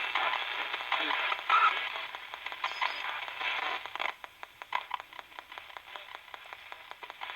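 Radio scanning rapidly through stations: a crackly static hiss with brief snatches of broadcast audio, breaking up later into a rapid string of clicks as it jumps from channel to channel.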